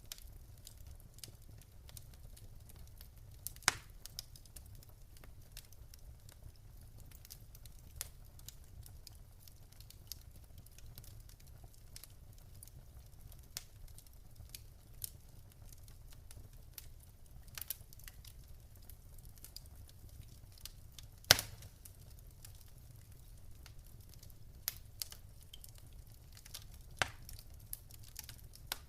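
Wood fire in a fireplace crackling: scattered sharp pops and snaps over a low, steady rumble, with one loud pop about three-quarters of the way through.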